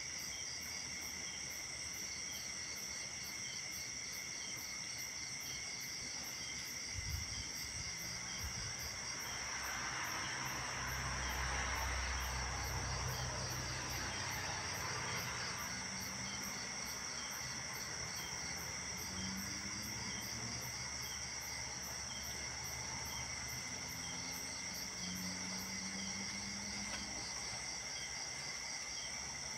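Night chorus of crickets and other insects: several steady high-pitched trills layered with rapidly pulsing chirps. Around the middle a low rumble swells and fades away.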